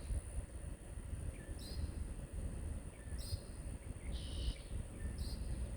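Birds chirping outdoors: a few short, high calls spaced about a second apart over a low wind rumble and a thin, steady high-pitched tone.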